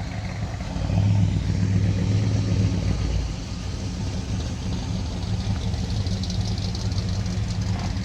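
A car engine running, its low rumble swelling about a second in and easing back after about three seconds.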